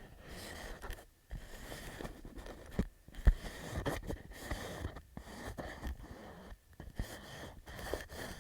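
Fingertips tapping on a clear plastic pouch: quick, irregular taps with crinkling of the plastic between them, popping like popcorn being made. The loudest tap comes about three seconds in.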